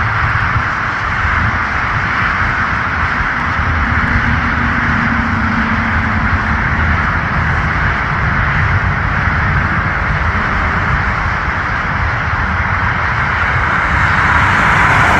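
Jet airliner engines running with a steady roar over an uneven low rumble, growing louder and hissier near the end.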